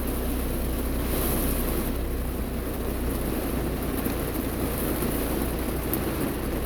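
Heavy rain coming down hard on a stopped car, heard from inside the cabin as a steady hiss, with a steady low hum beneath it.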